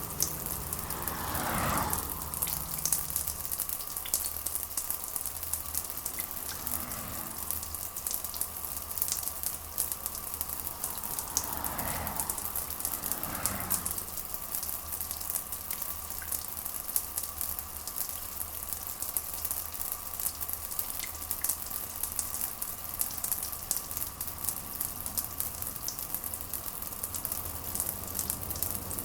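Steady rain with a dense patter of drops, over a faint steady tone. There are two brief swells of noise about twelve and thirteen and a half seconds in.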